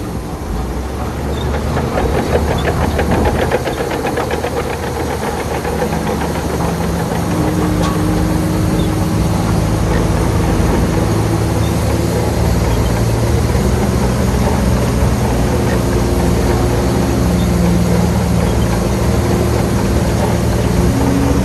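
Bulldozer's diesel engine running under work, with a fast, even clatter in the first few seconds. The engine note then settles, shifting in pitch a few times as the load changes.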